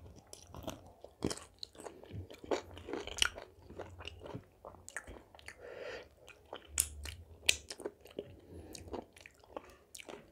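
Close-miked chewing and biting of food, with irregular crunches and wet mouth clicks.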